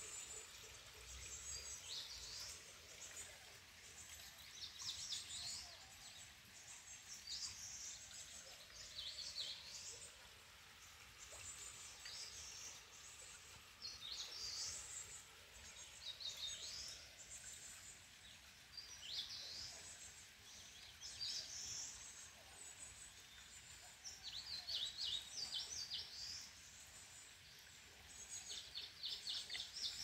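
Small birds calling: short high-pitched notes and quick trills repeated every second or two over faint background hiss.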